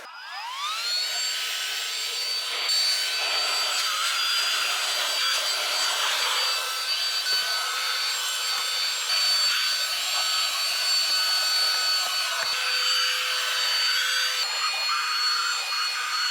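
Cordless handheld car vacuum switched on, its motor whine rising as it spins up, then running steadily with a high whine over a hiss of air. Its tone shifts slightly near the end.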